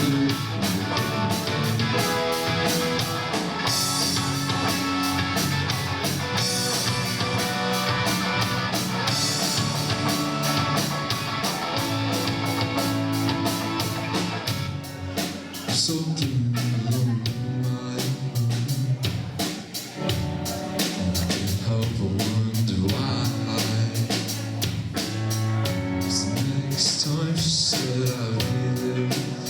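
Live rock band playing with drum kit and guitar. The texture changes and thins about halfway through.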